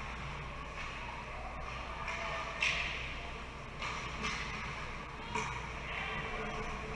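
Ice hockey play heard from the rink side: a steady arena hum with several short, sharp scrapes and knocks from skates, sticks and puck on the ice, the loudest a little under three seconds in.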